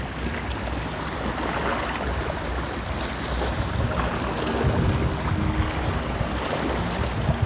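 Wind buffeting the microphone: a steady, low rumbling noise outdoors.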